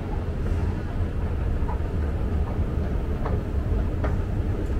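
A train running with a steady low rumble, with a few faint clicks over it.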